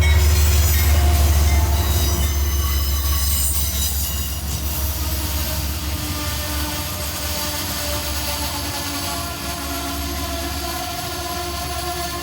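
Amtrak passenger train rolling through the station: a heavy low rumble with steady high-pitched squealing from the wheels on the rails. It is loudest at the start and slowly fades.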